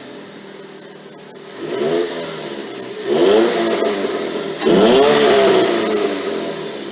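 2006 Chevy HHR's 2.4L Ecotec four-cylinder, with long-tube header, catless downpipe and Cherry Bomb chamber muffler, idling just after a start and then revved three times, each rev rising and falling in pitch, the last two the loudest, before settling back toward idle.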